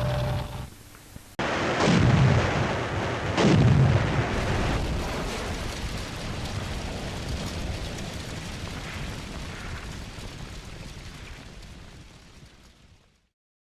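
Two heavy explosions about a second and a half apart, then a long trail of noise that slowly fades away.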